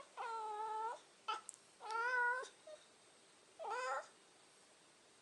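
A domestic cat meowing three times. The first meow is long and even, the second rises and falls, and the third is short. A brief chirp comes between the first two.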